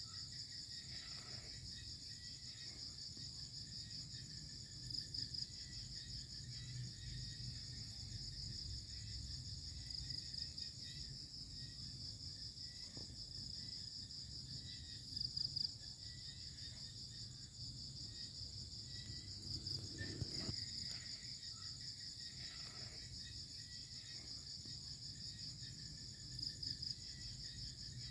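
Steady high-pitched, finely pulsing trill of crickets, unbroken throughout. A low rumble lies underneath, and a few brief louder sounds stand out about 5, 15, 20 and 26 seconds in.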